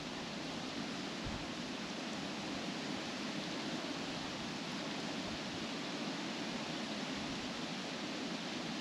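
Steady wind blowing through trees, the leaves rustling in an even, constant wash of sound.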